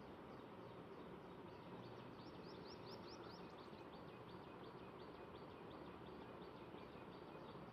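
Near silence: faint steady background noise, with a bird chirping in a fast run of short high notes, about six a second, loudest a little before the middle and fainter after.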